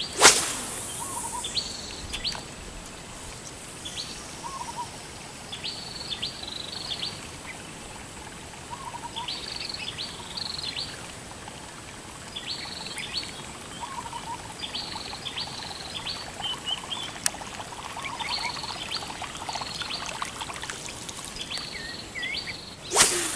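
A bird calling over and over, each call a quick cluster of high notes, repeating every two to three seconds over a steady outdoor hiss. A loud sharp noise comes just after the start, and another about a second before the end.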